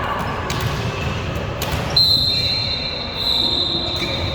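Gymnasium ambience of a volleyball match with a steady crowd murmur. About two seconds in, a single high-pitched tone starts and holds steady for over two seconds.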